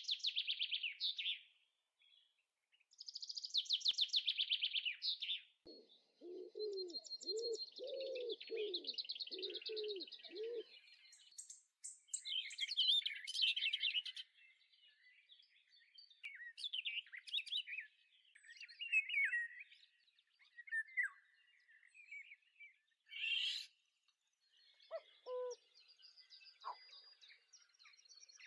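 Birds chirping and singing, with fast rattling trills and short whistled notes, and a run of about eight lower, evenly spaced calls about six seconds in.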